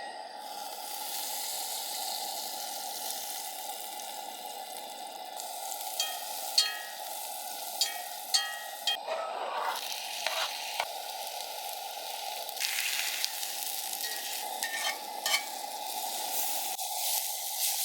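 Food sizzling as it fries in a pan, with a utensil clinking and scraping against the pan now and then, more often from about six seconds in.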